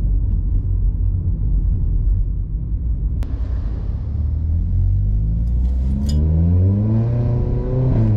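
VW Polo GT TSI's Stage 2–tuned 1.2-litre turbocharged four-cylinder engine through a full-system exhaust with a Remus valvetronic muffler, heard from inside the car: a low rumble at low revs, then the engine note climbs steadily under throttle from about five seconds in.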